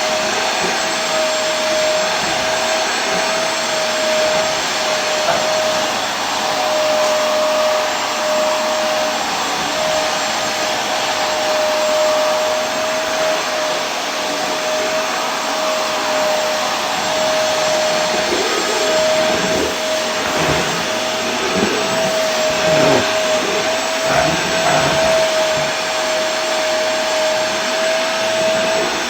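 Vacuum cleaner running steadily: an even rush of air with a constant motor whine held on one pitch, and some uneven low fluttering in the second half.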